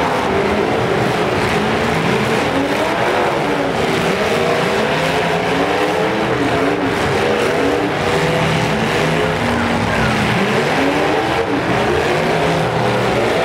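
Several demolition derby cars' engines revving hard at once, their overlapping pitches rising and falling continuously as the cars drive and ram around the arena.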